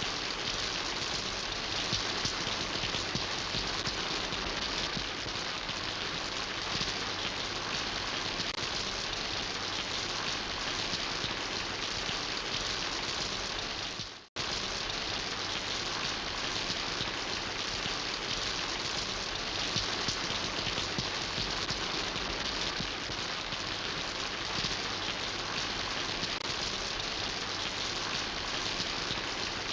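Steady rain falling, an even, dense hiss. About halfway through it fades out to silence for a split second and cuts straight back in.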